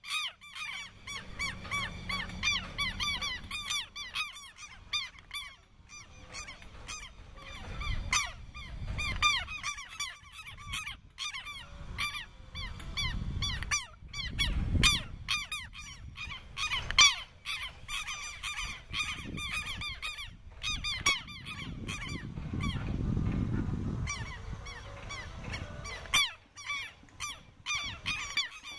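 Birds calling over and over, several short pitched calls a second with only brief breaks, thinning out around three quarters of the way through. Low rumbles of wind on the microphone come and go, strongest about halfway and again after twenty seconds.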